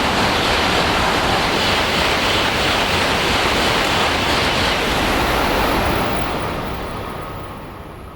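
Coupled E2- and E3-series Tohoku Shinkansen train passing through at high speed: a loud, steady rushing noise of air and wheels that fades away over the last couple of seconds.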